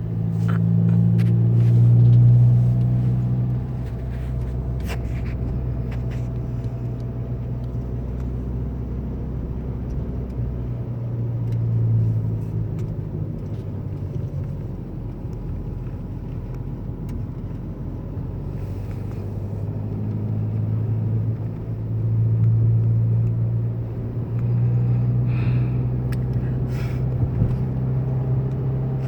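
2010 Jetta TDI's four-cylinder turbodiesel running through a 3-inch straight-pipe exhaust while driving, a steady low drone. It swells louder a few times under throttle: near the start, about twelve seconds in, and twice more in the last third.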